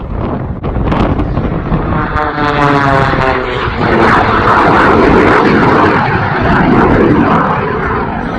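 Low-flying airplane passing overhead: its sound sweeps down in pitch about two seconds in, then turns into a loud rushing engine noise that eases slightly near the end.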